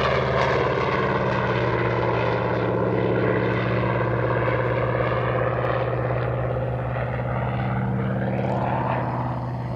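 Piston-engined propeller fighter, a Vought F4U-7 Corsair with its Pratt & Whitney R-2800 radial, flying past under power. It runs steadily, the engine note dropping slightly in pitch and fading a little near the end as it moves away.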